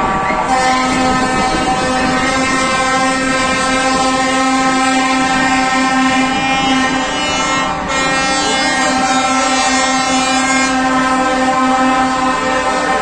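Lorry air horns sounding continuously, several horns at different pitches held together, the blend of tones changing about half a second in and again around eight seconds.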